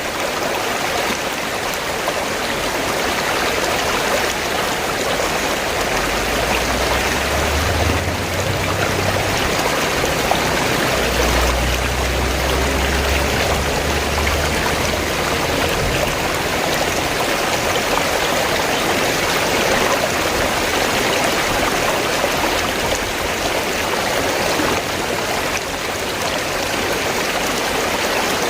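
Steady rushing of flowing river water. A low rumble sits underneath from about six to sixteen seconds in.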